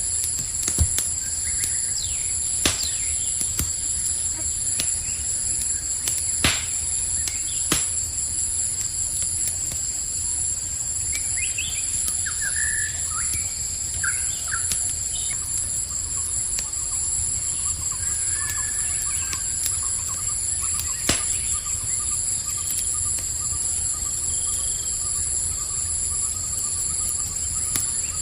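Campfire crackling, with a handful of sharp pops from the burning wood, over a steady high chorus of crickets. A few short bird chirps come in about midway.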